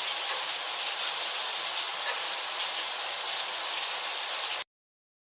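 Shower running: a steady spray of water hissing evenly, stopping suddenly about four and a half seconds in.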